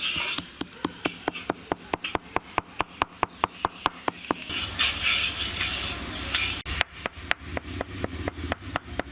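A spatula stirring whole spices (cinnamon, cardamom and cloves) in a pan, knocking against the pan in quick, regular clicks about four to five times a second. There is a soft hiss of frying partway through.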